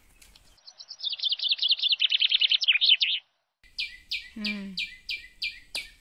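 Bird calls. First a fast, loud trill of high chirps lasting over two seconds, then after a brief break a series of about seven evenly spaced short notes, each sweeping downward, with a short low sliding sound among them.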